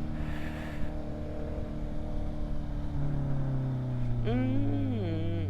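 Honda CBR650 inline-four running through its aftermarket exhaust at a steady cruise, its note slowly falling from about three seconds in as the bike eases off. A brief rising-and-falling pitched sound comes near the end.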